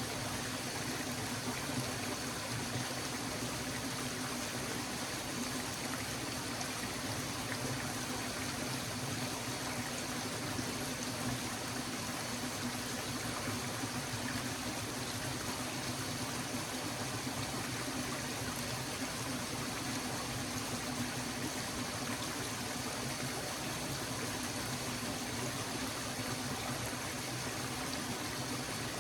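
Stream water flowing steadily, an even rushing and trickling that stays the same throughout.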